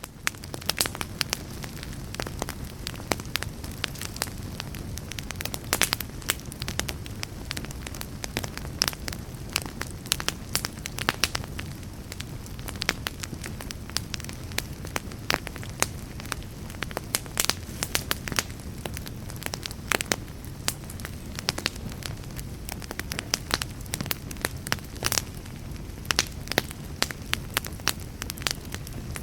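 A burning fire crackling: frequent irregular sharp pops and snaps over a steady low rumble of flame.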